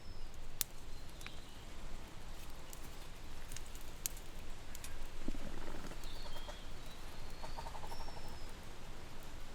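Birds chirping a few times, short high calls, with a longer run of chirps about six seconds in, over a steady low rumble and scattered sharp clicks.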